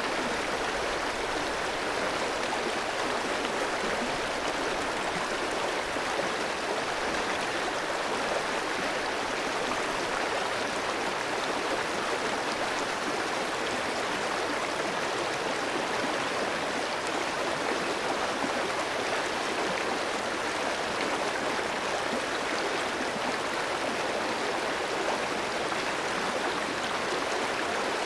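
Clear mountain stream flowing over rocks: a steady, even rush of running water with no change throughout.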